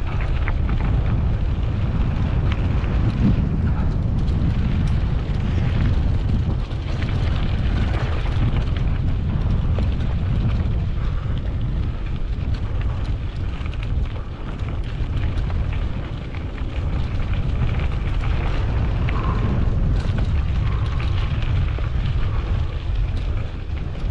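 Heavy wind buffeting on the microphone of a moving mountain bike, a steady low rumble with scattered crackle from the tyres and bike over rough dirt.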